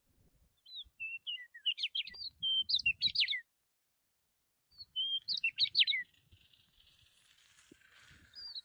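A small songbird chirping in quick, high twittering phrases. It comes in two bursts, the first two to three seconds long and the second shorter, with a silent pause of about a second between, then a faint hiss and a lone note near the end.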